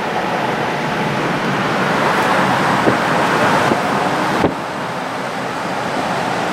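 Steady rush of road and wind noise from a moving car, heard inside the cabin, with a few faint knocks.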